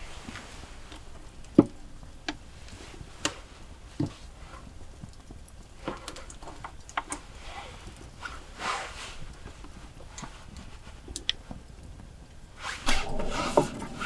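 Scattered light clicks and knocks of things being handled, with a soft rustle about two-thirds of the way through and a louder burst of rustling and clatter near the end.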